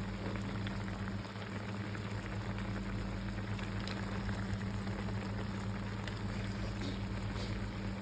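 A pan of noodles with freshly added eggs, bubbling steadily over the heat, with a few faint clicks. Under it runs a low, steady hum.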